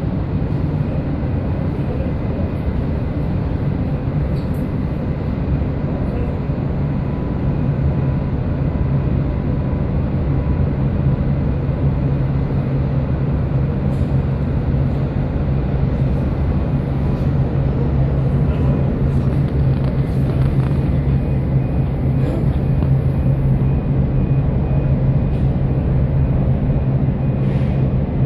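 Steady low rumble of a passenger ferry's engines and hull heard on board while under way, with a constant wash of noise and no change in level.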